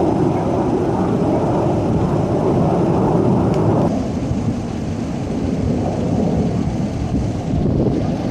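Deep, steady rumble of jet aircraft flying overhead, easing a little about four seconds in.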